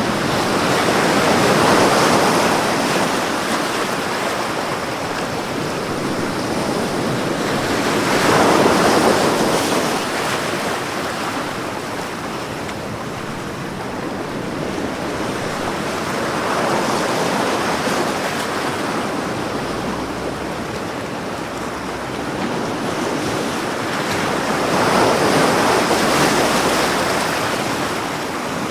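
Sea waves breaking on a shore in a steady wash of surf, with four waves swelling and falling away about every eight seconds.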